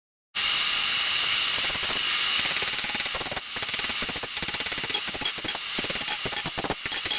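Rapid, irregular hammer strikes on a hot steel cutlass blank while its tip profile is forged, over a steady forge hiss. The strikes begin about a second or two in and keep coming densely.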